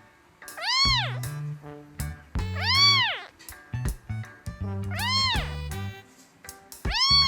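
Domestic cat meowing four times, about two seconds apart, each meow rising and then falling in pitch.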